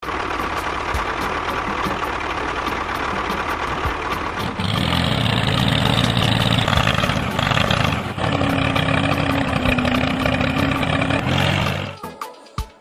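An engine running steadily, getting louder and deeper about four and a half seconds in, then dying away near the end.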